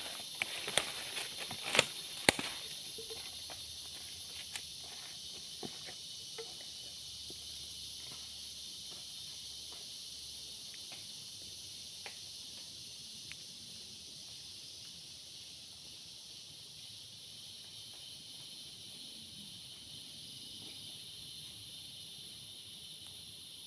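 Steady, high-pitched chorus of forest insects. Scattered sharp clicks and snaps come through it in the first few seconds.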